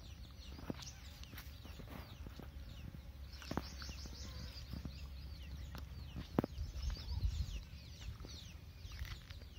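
Birds chirping, many short quick calls overlapping, busiest in the second half, over a steady low rumble, with a few sharp clicks.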